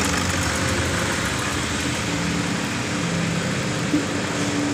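Toyota Innova engine idling steadily, just after an engine decarbonising treatment has finished.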